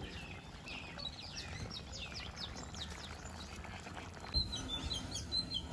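Small birds chirping: a run of quick, rising and falling chirps in the first half, then short high repeated notes near the end, over faint steady background noise.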